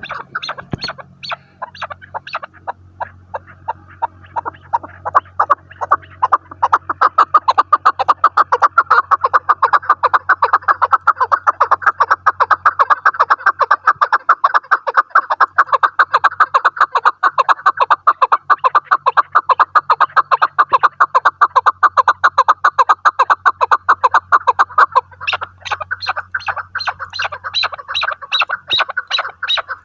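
Chukar partridge calling: a long, rapid run of repeated chuk-chuk calls, several a second, that builds up over the first few seconds and stays loud through the middle. Near the end the notes turn sharper and higher.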